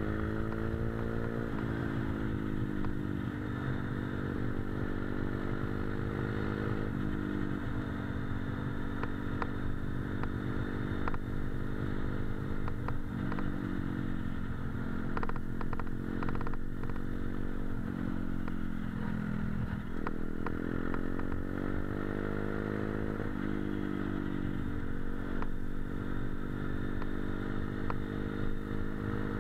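Motorcycle engine running at road speed, its pitch dropping and then rising again several times as the revs change.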